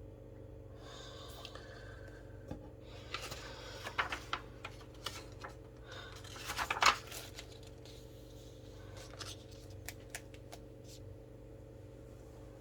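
Desk handling noises: rustling and a string of sharp clicks and taps, loudest about seven seconds in, over a steady low electrical hum.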